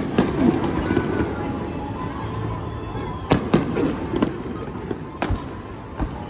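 Fireworks display with sharp bangs of bursting shells: a pair about three seconds in, another pair around five seconds and a smaller one near the end. Music plays throughout.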